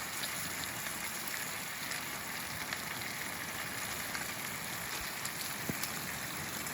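Steady, even outdoor hiss with a few faint ticks.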